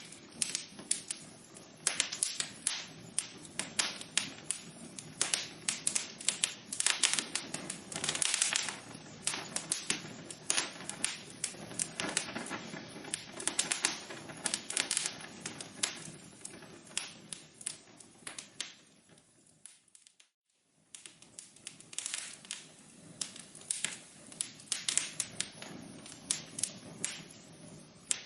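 Wood fire crackling in a fireplace: a dense run of sharp pops and snaps over a soft hiss. About twenty seconds in it fades out to a moment of silence, then the crackling resumes.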